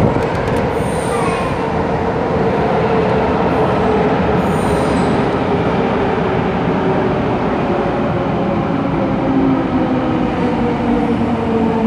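MTR West Rail electric train running into an underground station platform, a loud continuous rumble of wheels on rails with a motor whine that slowly falls in pitch as the train slows.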